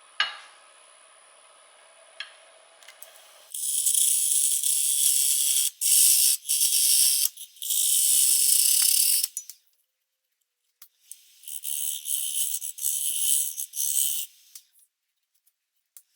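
A turning tool cuts into a wet maple bowl blank spinning on a Jet 1642 wood lathe at about 870 rpm, making a loud hissing cut in long passes. The cuts begin about three and a half seconds in and run for about six seconds, then stop briefly and run again for about three seconds. Before the first cut there is only a faint hum from the running lathe with a thin high whine.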